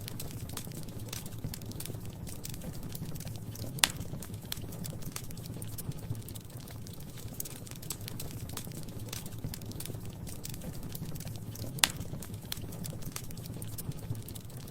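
Wood fire crackling in a fireplace: a steady low rumble of the flames under many small scattered crackles, with two sharper, louder pops, about four seconds in and near the end.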